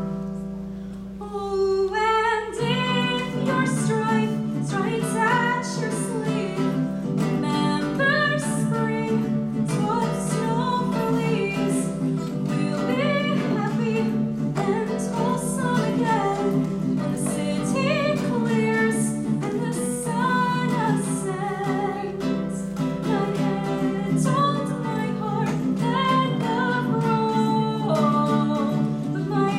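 A woman singing a folk-rock song live to a guitar accompaniment.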